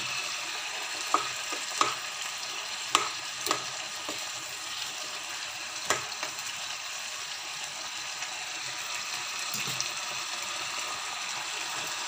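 Onion-tomato masala with ginger paste sizzling steadily in oil in a pan. A few sharp clicks and taps stand out in the first six seconds.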